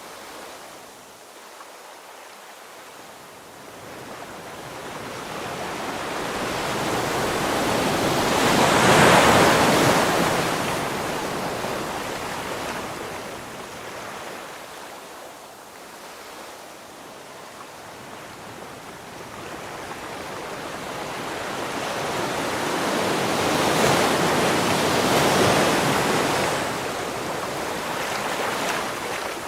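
Ocean waves breaking on the shore. Two waves each build over several seconds to a loud rush, one about a third of the way in and one later on, and then fade away.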